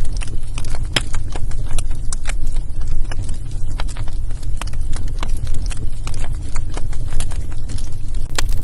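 Wood fire in a fireplace crackling, with irregular sharp pops and snaps several times a second over a steady low rumble.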